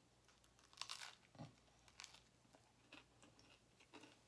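Faint close-up biting and chewing of a piece of sub roll: soft mouth sounds with a few short crunchy crackles, the loudest about a second in.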